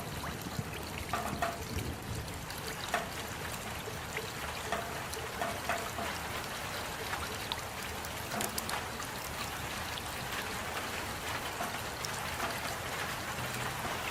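Steady rain: an even hiss with scattered sharp ticks of single drops landing.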